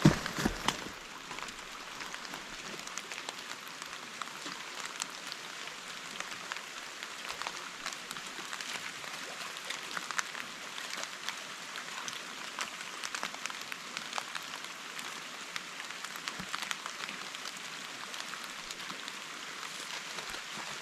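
Steady rain falling, with many separate drops ticking on near surfaces. A few knocks sound in the first second.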